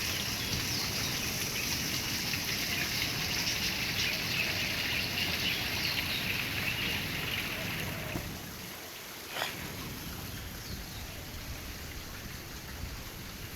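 Bird chirps over a steady hiss that gets a little quieter about eight seconds in, with one sharp click soon after.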